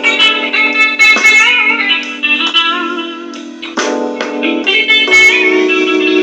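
Electric guitar playing a slow blues through a Digitech effects unit: picked single notes with string bends over held lower notes.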